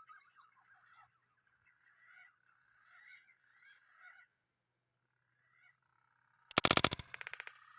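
Faint forest bird calls with a steady high whine behind them; about six and a half seconds in, a loud harsh rattling burst of rapid strokes lasting about half a second, then softer rattles.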